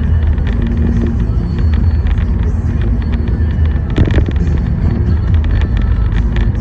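Car driving along: a steady low rumble of engine and road noise, with light ticking over it and a brief louder noise about four seconds in.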